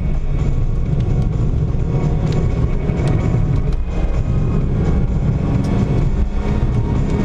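A car driving along a mountain road: a steady low rumble of engine and tyre noise.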